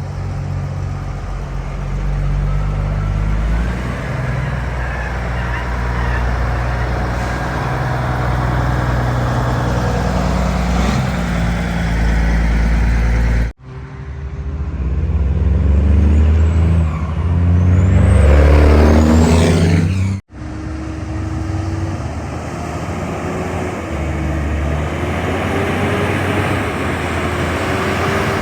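Kenworth trucks' diesel engines working through the gears, the pitch climbing and dropping in steps with each shift. Three separate passes are cut together; the middle one, from about 14 to 20 seconds in, is the loudest, with the engine pitch rising steeply as it accelerates.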